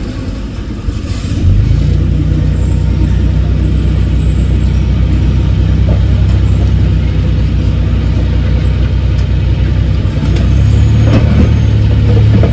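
Heavy diesel engine of earthmoving machinery running loud and steady, then rising to a higher, louder note about ten seconds in.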